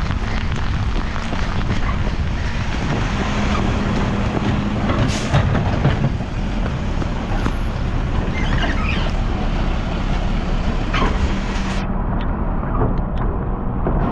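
Mack LR garbage truck with a Labrie body running steadily, with a brief hiss about five seconds in, typical of its air brakes.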